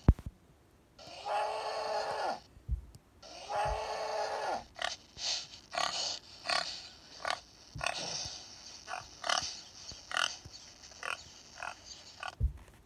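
Two long, even-pitched animal calls, then a quick run of short pig grunts and squeals, played back through a small device speaker.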